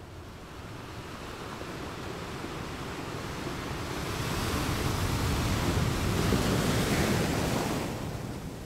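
Wind rushing on the microphone over choppy sea water, growing louder about four seconds in and easing off near the end.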